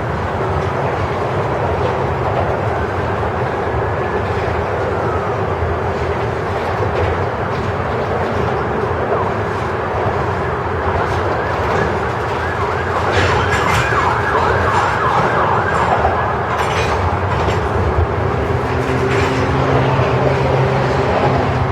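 Freight train of grain hopper cars rolling past, steel wheels on rail, with high squealing tones that glide up and down. A run of sharp clicks comes a little past the middle, and a steady low hum joins near the end.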